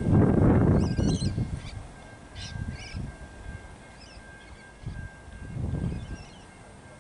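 Small birds chirping in short warbling phrases, with a faint steady high tone underneath. A low buffeting rumble on the microphone is loudest in the first second and a half, then dies away.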